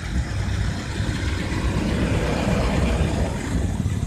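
Street traffic: a steady motor-vehicle rumble with tyre noise, swelling slightly in the middle.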